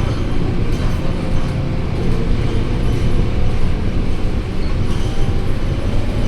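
Scania K230UB single-deck bus running with a steady low engine drone and a few light knocks.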